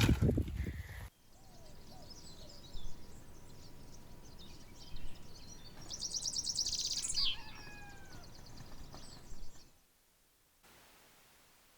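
Birds chirping and calling, with a loud fast high trill about six seconds in, followed by a few falling whistles. It opens with a second of loud low rumbling and drops to near silence near the end.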